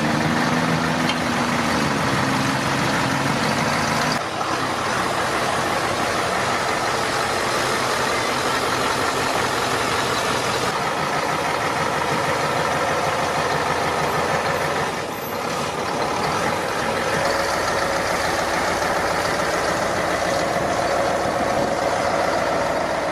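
Heavy truck engine running under load, with a dense rumble and the noise of the drive. The sound changes abruptly about four seconds in and again about fifteen seconds in.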